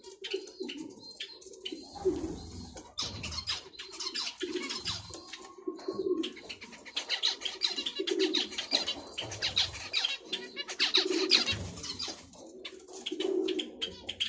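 Cage birds calling: doves cooing, repeated low coos every second or two, with many short high chirps from zebra finches over them.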